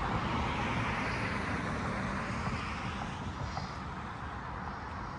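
A road vehicle running on the street, a steady low rumble that slowly fades.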